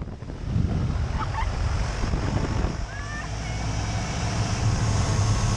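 Steady wind rush on the microphone over the low drone of a Travel Air biplane's engine in flight.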